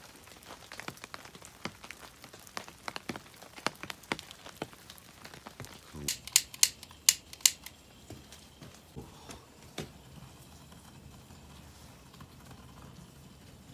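Irregular sharp clicks and ticks, with a cluster of louder clicks about six to seven and a half seconds in, over a faint steady low hum.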